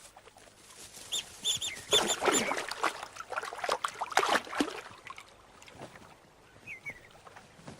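North American river otters giving a quick series of short, high chirps, with splashing and scuffling as they move off.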